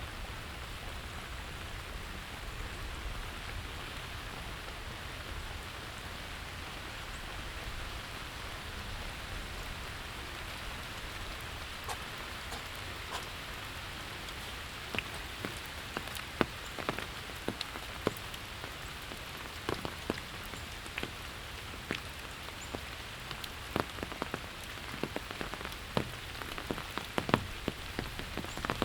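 Steady autumn rain hissing on the ground. From about halfway through, sharp, irregular close taps join in and grow more frequent toward the end.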